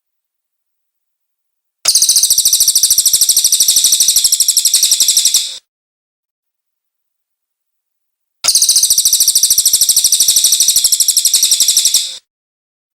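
Cililin bird singing: two bursts of rapid, evenly repeated high-pitched notes, each about four seconds long, with dead silence between them.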